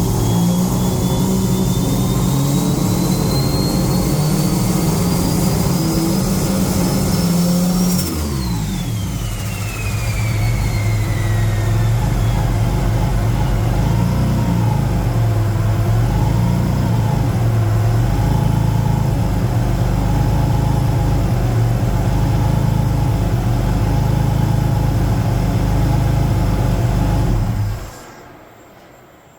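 Turbocharged Subaru EG33 flat-six held at raised revs, the big turbo's whine climbing steadily for about eight seconds. The throttle is then released: the whine falls away over several seconds and the engine settles to a slightly wavering idle. The sound stops near the end.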